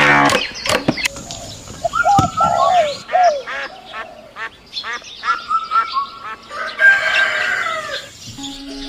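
Chickens calling: clucking notes, then one longer crow-like call near the end, with small birds chirping throughout. A few notes of music end the first second, and music comes back near the end.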